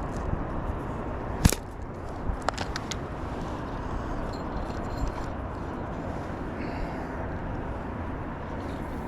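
Steady outdoor background rumble and hiss, with one sharp click about a second and a half in and a few lighter clicks a second later.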